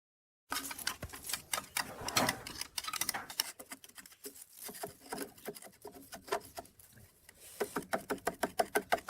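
Rapid, irregular clicking and light tapping of metal being handled, a few clicks a second, becoming a quicker, more even run of clicks near the end.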